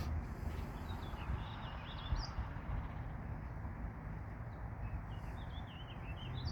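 Songbird chirping in two quick runs of high twittering notes, the first about a second in and the second near the end, over a steady low background rumble.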